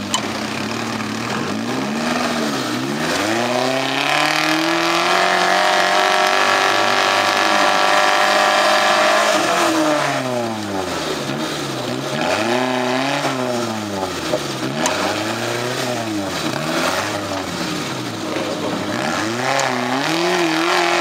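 Suzuki Samurai 4x4's engine revving under load as the off-roader climbs a steep bank. It rises a few seconds in and is held high for several seconds, then is blipped up and down about once a second.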